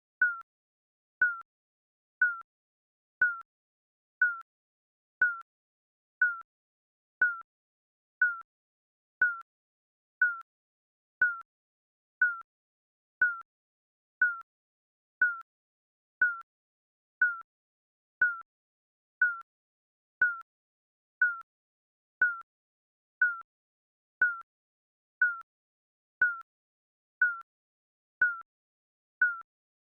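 Digital countdown-timer beep sounding once a second, each a short, high electronic tone that dips slightly in pitch.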